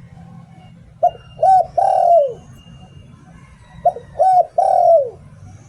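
Spotted dove cooing: two phrases about three seconds apart, each of three notes, two short and a longer one that falls in pitch at the end.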